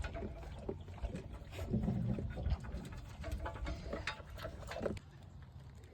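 A goat moving about and feeding on a milk stand: scattered small clicks and knocks, with a low rumble thickening about two seconds in.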